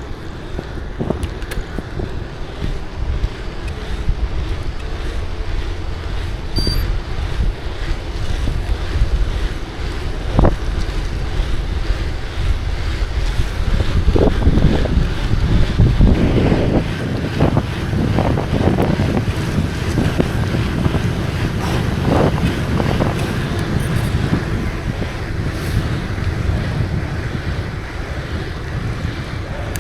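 Wind buffeting the microphone of a camera riding along on a moving bicycle: a steady low rumble. It grows louder in the middle, where several short knocks come through.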